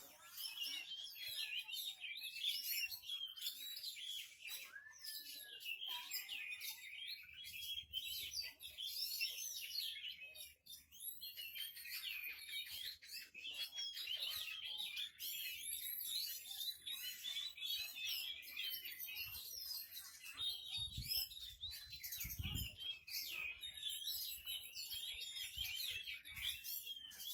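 Oriental magpie-robin (kacer) song: a dense, unbroken stream of rapid, varied whistles, chirps and trills, with a few low thumps about three-quarters of the way through.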